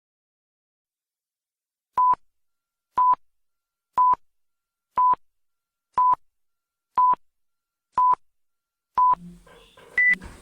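Electronic beeps: eight short beeps at one pitch, one a second, then a single higher beep, like a countdown timer sound effect.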